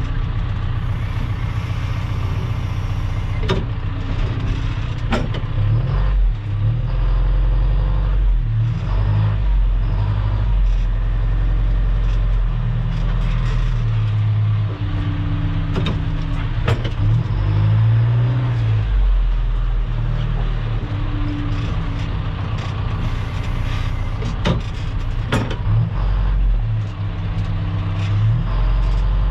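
Engine of a wheeled earthmoving machine running under load while it drags gravel, its low drone rising and falling as the load changes, with a few sharp knocks and clanks scattered through.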